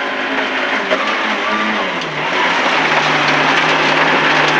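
MG ZR rally car's 1.4-litre engine under hard driving, heard from inside the cabin over tyre and road noise. About two seconds in the engine note drops, then holds steady.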